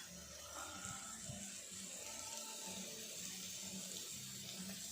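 Food sizzling steadily on an electric grill pan.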